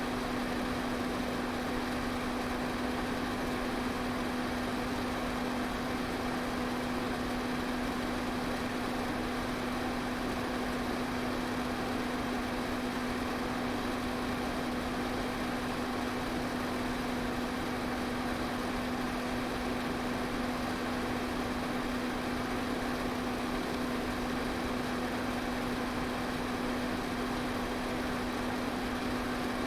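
Electric fan running steadily: a constant rush of air with a steady low motor hum.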